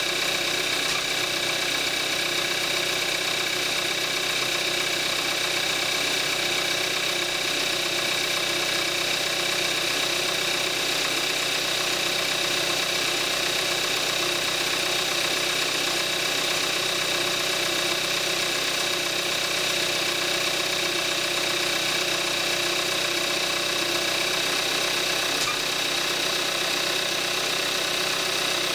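2014 Kia Forte5's 2.0 GDI four-cylinder engine, at about 41,000 miles on 5W-30 oil, idling steadily, heard with the hood open.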